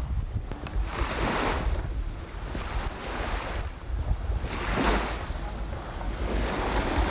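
Wind buffeting the camcorder microphone with a constant low rumble, over water rushing and splashing around a boat. Surges of splashing hiss come every second or two.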